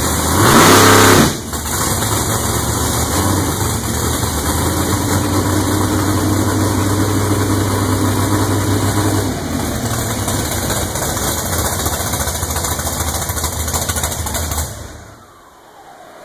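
Big-block Ford V8 in a Top Sportsman drag car idling on warm-up, rough and loud. About half a second in, one quick rev rises and drops back within about a second. The engine then idles steadily and shuts off near the end, leaving only a faint hum.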